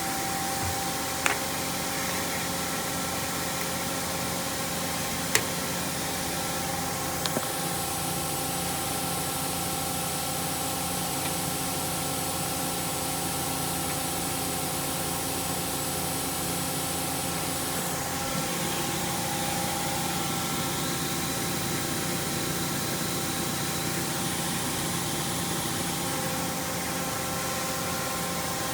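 CNC mill-turn machine running steadily while machining a shaft: a constant mechanical hum with several held tones over a hiss. A few sharp clicks come in the first several seconds, and a higher hiss joins from about seven seconds in until about eighteen.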